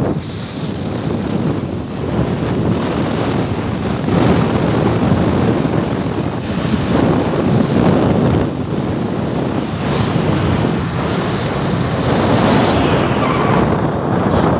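Wind buffeting the microphone: a loud, rough rushing that swells and dips, with no clear engine note.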